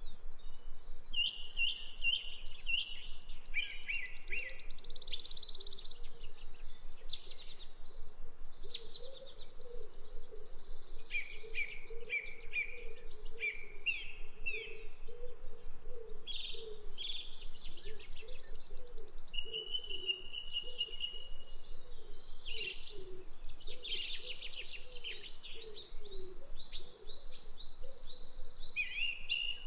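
Several songbirds chirping, trilling and whistling in overlapping phrases, with a low wavering call running underneath from about four seconds in.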